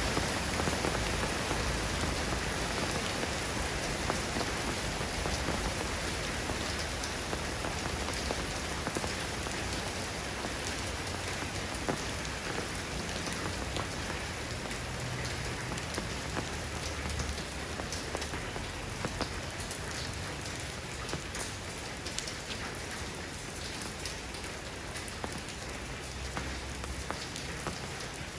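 Steady soft rain falling on a surface, a dense even hiss with many small drop ticks, easing slightly toward the end.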